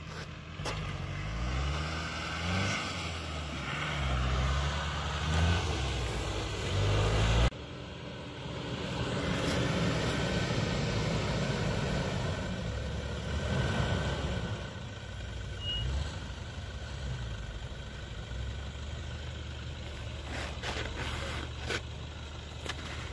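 Off-road 4x4 engine revving up and down for the first seven seconds or so, then switching abruptly to a steadier engine running under a noisy hiss.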